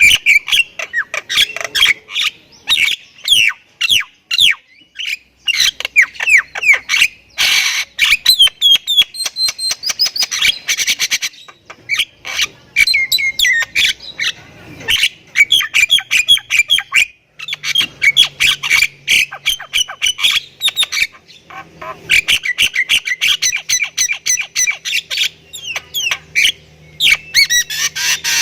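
Jalak kebo myna singing hard and without a break, a rapid mix of harsh chattering, clicks and whistled notes with only brief pauses.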